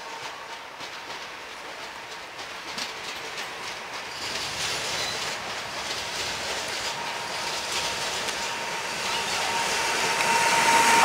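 A Koleje Śląskie Pesa Elf electric multiple unit approaching and passing, growing steadily louder, with wheels clicking over the rail joints. A steady high tone grows in near the end as the train draws level.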